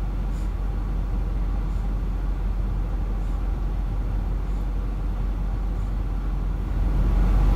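Steady low rumbling noise that gets louder near the end.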